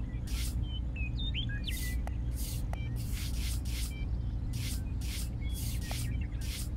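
Small metal garden trowel scraping and scooping sand, a series of short hissing scrapes at uneven intervals. Birds chirp faintly in the background over a steady low rumble.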